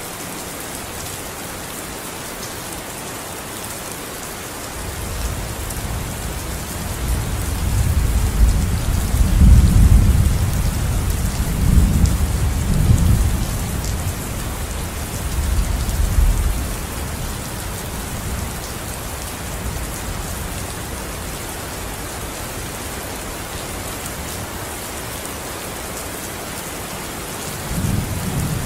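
Steady rain falling, with a long rolling rumble of thunder from about five seconds in that swells several times and dies away around seventeen seconds, and a new rumble starting near the end.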